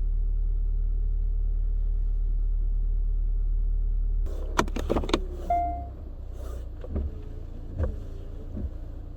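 A car running steadily, heard as a low hum from inside the cabin; about four seconds in the hum drops and a series of clicks and knocks with a few short squeaks follows.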